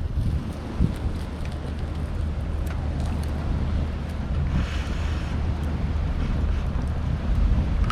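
Wind buffeting the microphone: a steady low rumble, with faint scattered clicks and crackles and a brief hissing swell about five seconds in.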